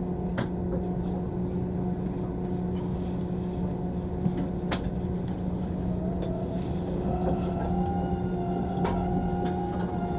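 Inside a JR 185 series electric train while it runs: a steady hum with a few fixed tones and a sharp click every four seconds or so. A faint wavering whine joins about six seconds in.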